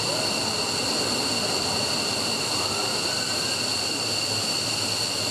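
F-15 fighter's turbofan engine running steadily during a ground run: a loud, even jet roar with a steady high whine.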